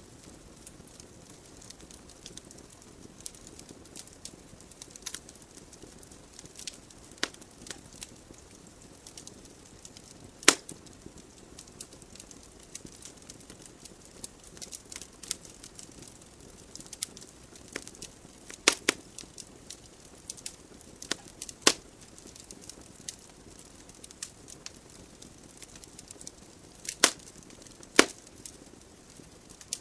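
Wood fire burning in a fireplace: a soft steady hiss of flames with irregular sharp crackles and pops from the logs, several louder snaps about ten, nineteen, twenty-two and twenty-seven to twenty-eight seconds in.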